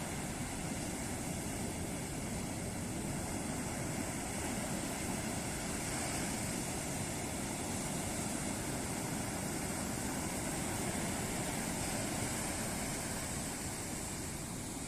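Ocean surf washing steadily onto a beach, a continuous rush of breaking waves that swells a little in the middle and eases near the end.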